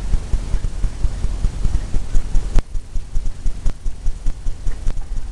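Rapid, irregular low thumps of a brush being worked across a stretched canvas, with a sharp click about two and a half seconds in.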